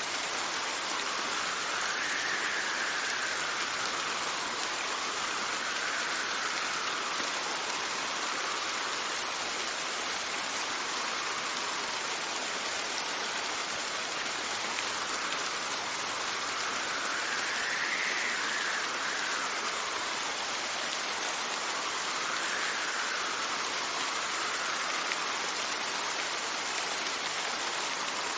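Steady rain hissing, with gusts of wind that rise and fall in pitch now and then.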